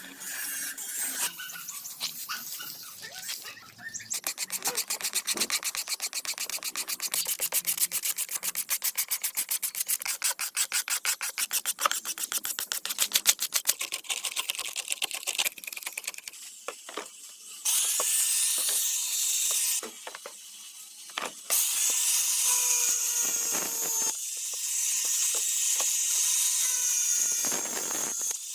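Fast, even back-and-forth rubbing strokes, about five a second, as in hand sanding or scrubbing. From a little past halfway, a small power tool runs with a steady high hiss and a faint whine.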